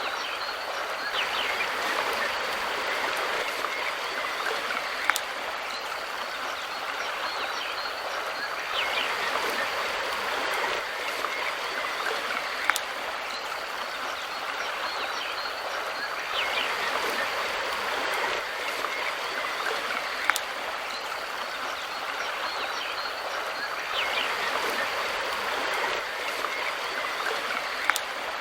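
Mountain river flowing over rocks: a steady rush of water that swells and eases about every seven and a half seconds. A sharp click recurs at the same spacing, four times.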